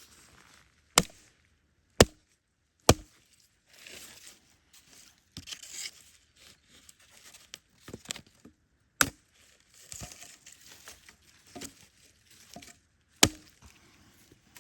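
Five sharp, loud chopping strikes, spaced irregularly with a long gap in the middle, with softer crinkling and rustling between them.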